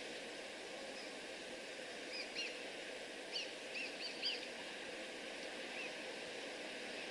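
Small bird chirping in short, quick notes, most of them in a cluster about two to four seconds in, over a steady background hiss of outdoor ambience.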